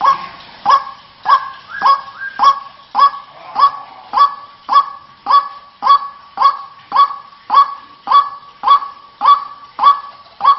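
White-breasted waterhen (ruak-ruak) calling: a monotonous series of loud, short, nasal 'kwak' notes repeated evenly, nearly two a second. This is the lure call used to draw waterhens in.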